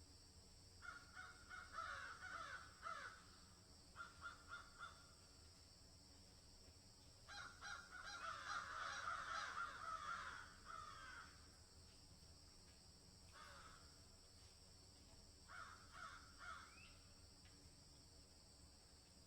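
Faint bird calls in several bouts, the longest and loudest from about seven to eleven seconds in, over a steady high hiss.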